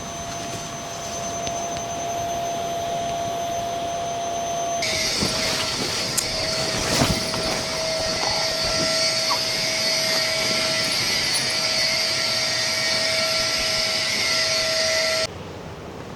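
Steady rushing noise of falling water, the sound of heavy rain and a nearby waterfall. It turns brighter and hissier about five seconds in, drops suddenly near the end, and has a faint steady tone underneath.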